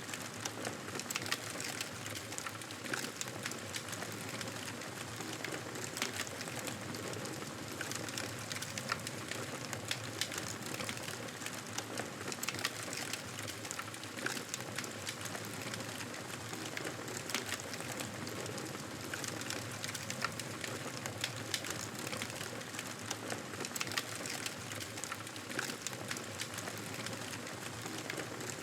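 Wood fire in a fireplace crackling steadily: frequent small irregular pops and snaps over a constant hiss.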